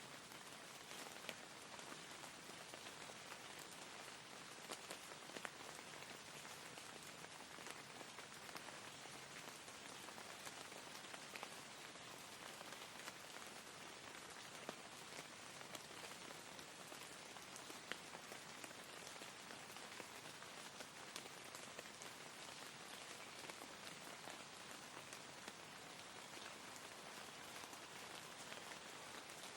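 Soft, steady rain: an even hiss with scattered single drops ticking through it.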